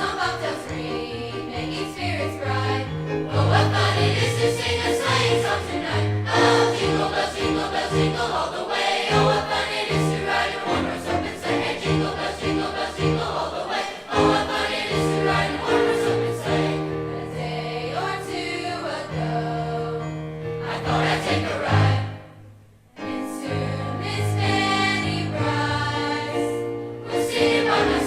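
A large high school choir singing in harmony, with a brief break in the singing about three quarters of the way through.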